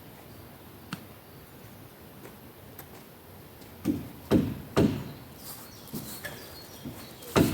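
A run of irregular knocks and thuds, roughly one every half second, starting about four seconds in, with a single faint click before them.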